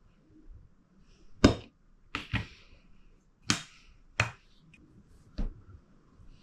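About six sharp clicks and taps of tools and small carburettor parts being handled and set down during reassembly, the loudest about a second and a half in.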